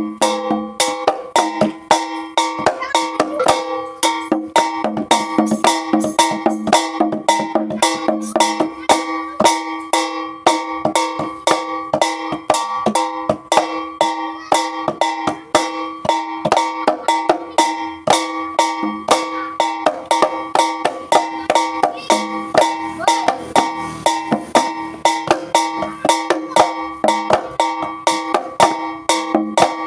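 East Javanese jaranan gamelan music: a fast, steady run of struck percussion over sustained pitched tones.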